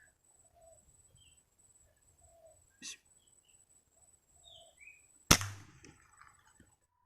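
A single sharp air-rifle shot a little over five seconds in, by far the loudest sound, with a short decay after it. Before it there are faint scattered bird chirps and a smaller click about three seconds in.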